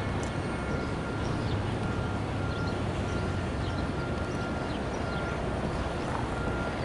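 Steady low rumble of a freight train in a rail yard, with a faint thin high tone coming and going.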